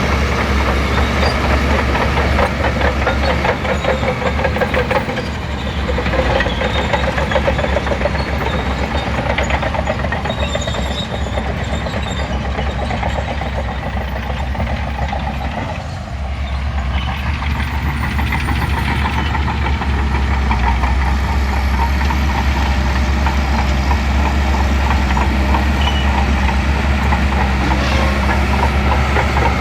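Shantui crawler bulldozer's diesel engine running steadily at work, easing off briefly about sixteen seconds in and then picking up again.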